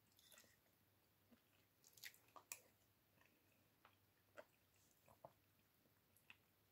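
Faint chewing and wet mouth sounds of someone eating chicken rice porridge, with scattered soft clicks. The loudest two clicks come near the middle.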